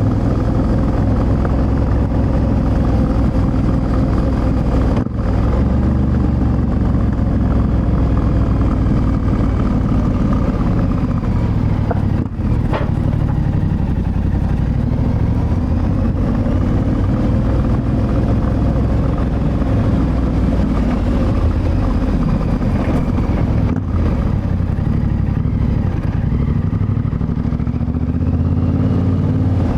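Yamaha Ténéré 700's CP2 689 cc parallel-twin engine through an Akrapovic exhaust, running under load as the bike is ridden, its pitch rising and falling with the throttle. There are three brief drops in the sound, about 5, 12 and 24 seconds in.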